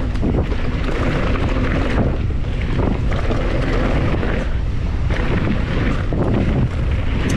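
Wind buffeting the microphone of a camera riding on a mountain bike at speed down a dirt trail: a steady, loud rush with a heavy low rumble.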